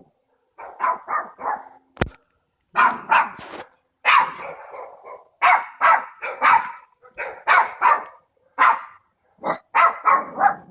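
A dog barking repeatedly, in quick runs of three to five sharp barks with short pauses between the runs. There is a single sharp click about two seconds in.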